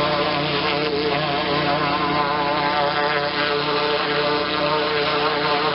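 Pressure washer's engine and pump running steadily under load, a constant even drone with no changes in speed.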